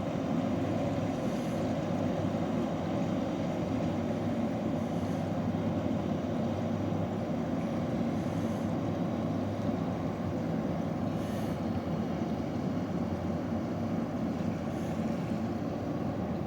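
Ship's engines running with a steady, even drone and a low hum.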